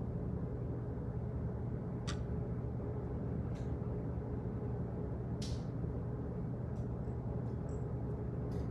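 Office background noise: a steady low hum and rumble, with a few soft, irregularly spaced clicks.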